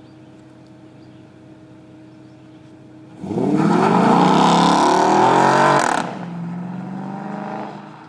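2010 Dodge Challenger SRT-8's 6.1-litre Hemi V8 on a newly installed exhaust, idling, then revved hard about three seconds in and held high for a few seconds. The throttle is let off suddenly about six seconds in, and the engine settles back to idle near the end.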